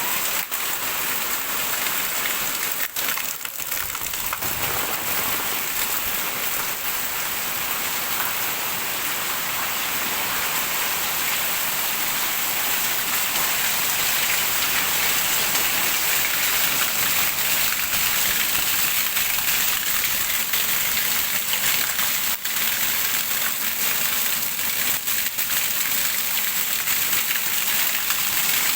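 Heavy rain falling steadily, a dense even hiss, growing slightly louder about halfway through.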